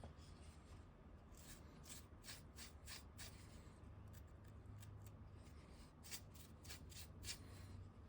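Near silence with a series of faint short clicks and rubs of small handling noises.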